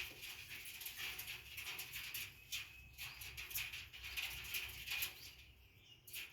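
Cockatiels moving about in a nest box: a busy run of small scratching and rustling clicks with faint, brief chirps, fading near the end.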